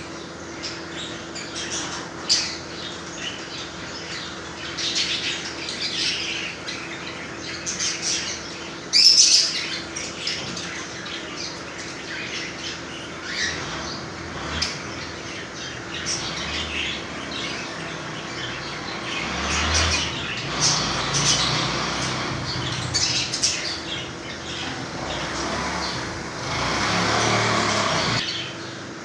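A group of Australian parrots squawking and chirping in many short high calls, with a loud burst about nine seconds in. There are bouts of wing flapping, with a longer noisy flurry near the end. A faint steady hum runs underneath.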